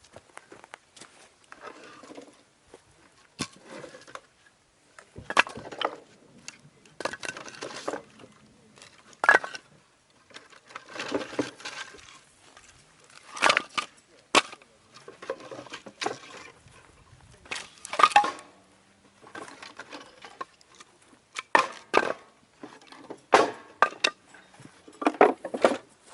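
A long run of irregular knocks, clinks and rustling from things being handled, with the clatter of wooden and metal camp gear.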